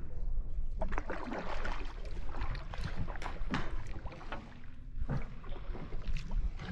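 Water and boat noises from a small boat: splashes and knocks over a low steady rumble.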